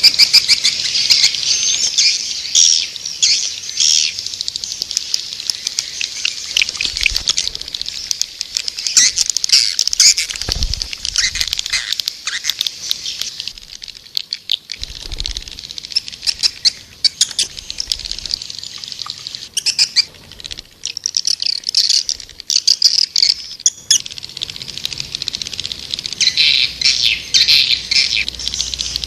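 Edible-nest (white-nest) swiftlets calling: a dense, high-pitched chattering twitter of rapid chirps. It thins out in the middle and thickens again near the end. This is a swiftlet call recording of the kind played to lure the birds into a nesting house.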